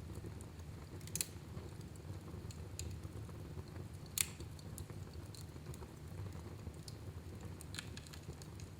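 Wood fire burning in a fireplace: a low steady rumble with scattered sharp crackles and pops, the loudest about a second in and about four seconds in.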